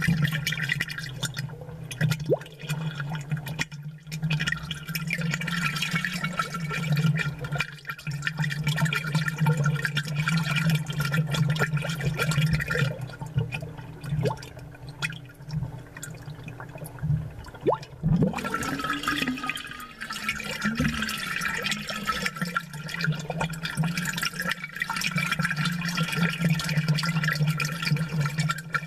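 Aquarium water bubbling and gurgling, picked up close and amplified, with many small bubble pops and splashes over a steady low hum.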